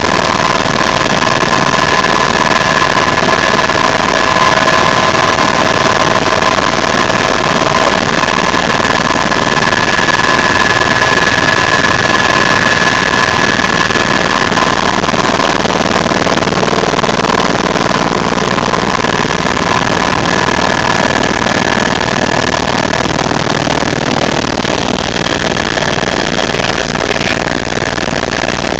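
Loud, steady noise of a helicopter in flight: a dense rushing drone with a high, steady whine of several tones on top.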